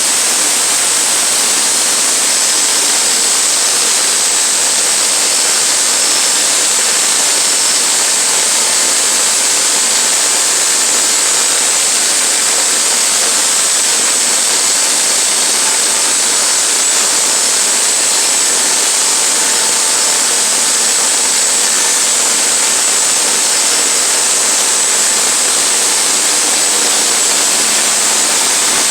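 Sawmill running while it cuts pine into 1x4 boards: a loud, steady, even noise that does not let up.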